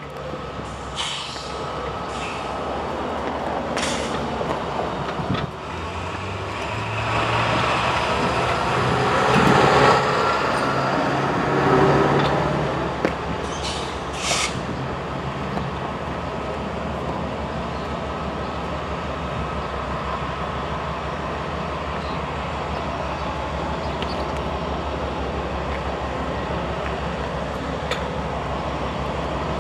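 A diesel-hauled freight train passing. The locomotives' engines rise and go by in the first half, then comes a long, steady rumble of freight cars rolling past, with a few brief high hisses or squeals early on.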